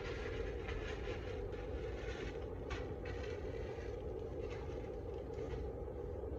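A large colony of honeybees buzzing steadily, with brief scraping sounds from the hive being worked, one sharper scrape a little before the middle.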